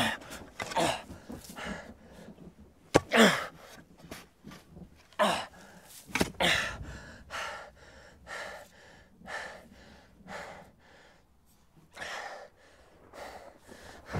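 A man gasping and breathing hard in short, irregular heaves, with a few grunts, from the effort of digging with a shovel. A sharp knock comes about three seconds in.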